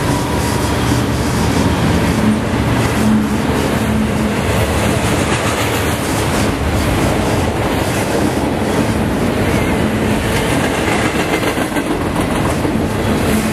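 Double-stack container freight train rolling past close by: a steady, loud rumble of the freight cars, with wheels clicking over rail joints.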